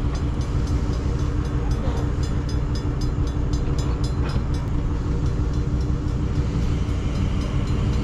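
A tow truck's engine running steadily with a low rumble and a constant hum. A fast, even ticking sits over it.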